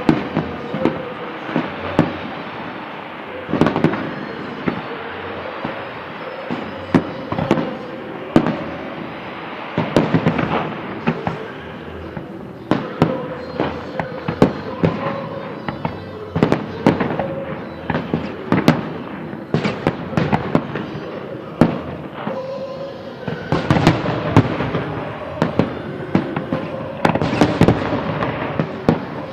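Fireworks salute: a steady run of shell bursts, irregular sharp bangs over continuous crackling, growing denser and louder near the end.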